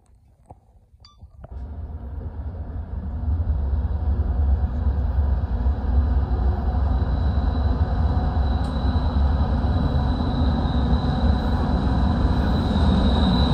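BNSF diesel freight locomotives coming out of a tunnel and approaching: a low engine rumble that builds over the first few seconds and then holds steady. From about halfway in, a high, steady wheel squeal rises over it.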